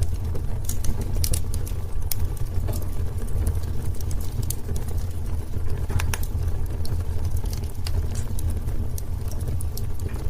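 Wood fire burning in a fireplace, crackling with frequent sharp pops over a steady low rumble; one louder pop about six seconds in.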